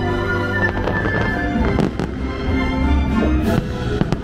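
Aerial fireworks going off in several sharp bangs and pops over continuous music.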